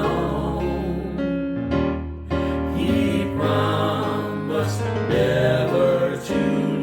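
Gospel hymn sung by a vocal group over piano or keyboard accompaniment, with sustained notes and a steady bass line.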